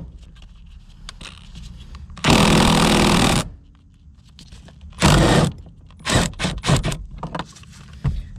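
Small cordless power tool, such as a driver or ratchet, running in short bursts as fasteners are backed out: one burst about a second long, a shorter one a few seconds later. Then a run of sharp clicks and knocks from parts and tools being handled.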